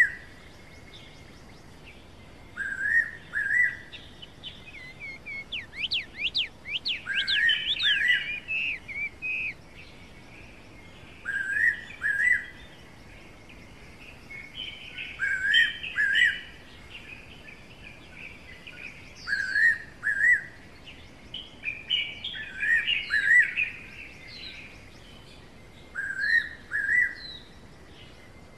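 Forest bird song: a fairy pitta's clear two-note whistle, repeated about every three to four seconds, with other small birds chirping and trilling in between.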